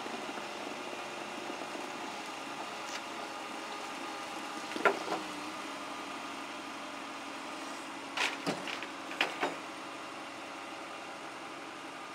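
Engine idling steadily, with a sharp knock about five seconds in and a few more knocks in quick succession around eight to nine seconds.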